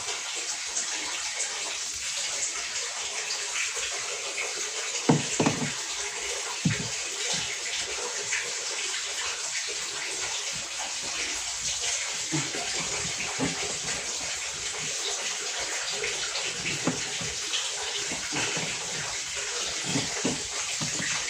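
Water running steadily, with a few short knocks and handling thumps, one about five seconds in and another a little later.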